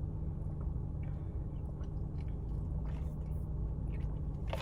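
Steady low hum of a car idling, heard inside the cabin, with a few faint small clicks and mouth sounds over it.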